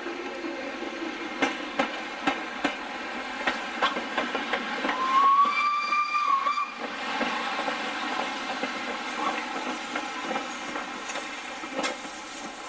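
Steam locomotive whistle: one single-tone blast of about two seconds in the middle, over steady steam hiss and train noise. Before it comes a run of sharp knocks.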